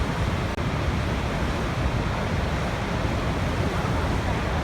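A waterfall's steady rush of falling water, with one very brief drop in level about half a second in.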